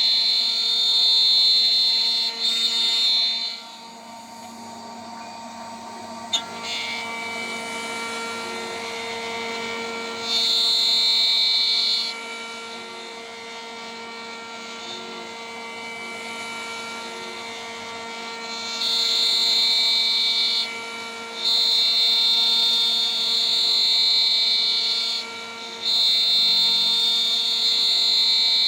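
CNC router spindle running steadily at about 14,000 rpm while a 3 mm three-flute end mill cuts in spells. A loud high-pitched cutting tone comes and goes several times, and between spells the spindle runs quieter.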